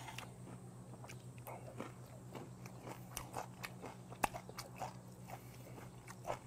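Close-up sounds of a person chewing a mouthful of raw goby, small bones and all: soft, irregular crunching and small wet clicks, with one sharper click about four seconds in.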